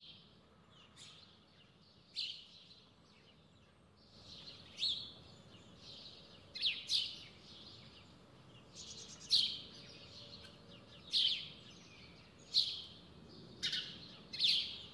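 A bird chirping over and over: short, sharp, high chirps that fall in pitch, one every second or two, over a faint steady outdoor background.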